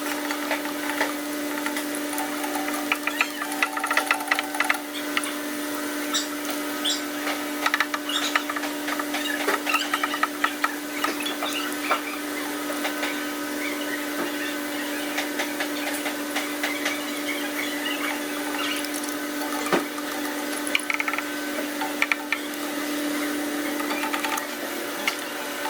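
A steady mechanical hum from a small motor or machine, with many small clicks and knocks of work on metal parts over it.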